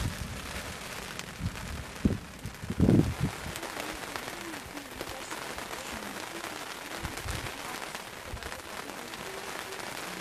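Rain falling steadily, with a few dull low thumps in the first three seconds, the loudest about three seconds in.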